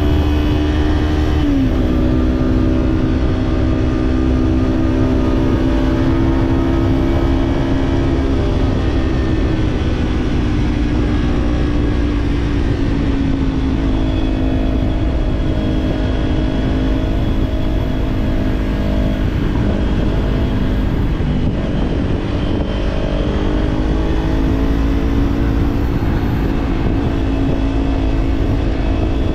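Kawasaki parallel-twin motorcycle engine with an aftermarket slip-on exhaust, running at steady revs while riding. The note drops sharply just under two seconds in, eases lower through the middle and rises a little near the end.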